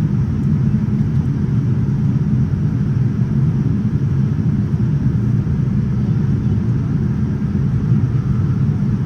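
Steady low rumble of engine and airflow noise inside the cabin of a Boeing 787-9 airliner in flight.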